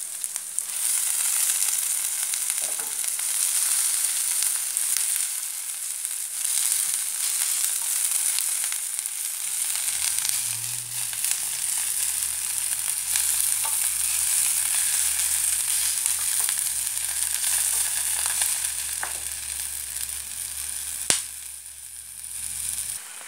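Kangkong (water spinach) stir-frying in hot oil with browned onions and garlic in a frying pan, stirred with a wooden spatula: a steady sizzle. One sharp knock near the end.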